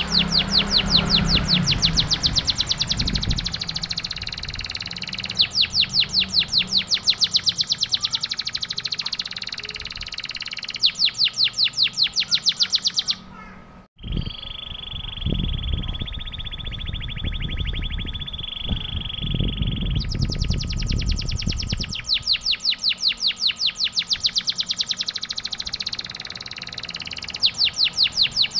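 Domestic canary singing a long song of fast, evenly repeated chirps in several trilled runs. There is a brief break just before halfway, after which a lower, steadier trill plays over some low thuds before the rapid chirping returns.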